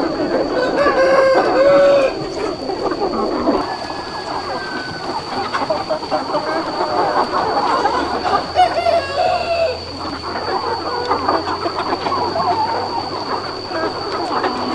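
A large flock of chickens clucking and calling over one another in a continuous chatter, with longer drawn-out calls about a second in and again near nine seconds. A steady high-pitched whine runs underneath.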